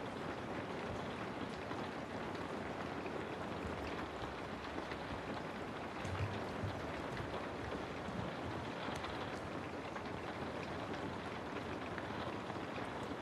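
Steady rain falling, an even hiss with scattered fine drop ticks. A couple of soft low thuds come about halfway through.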